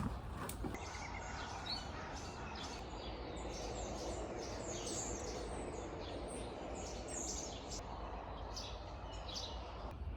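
Several small birds chirping in quick, repeated short calls over a steady outdoor background noise.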